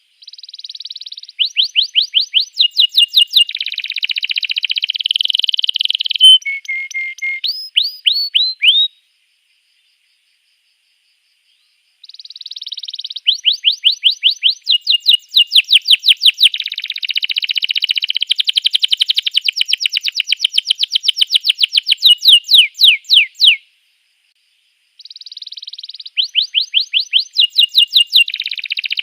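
Canary singing in long phrases of fast repeated trills and sweeping notes, three song bouts broken by two pauses of a few seconds.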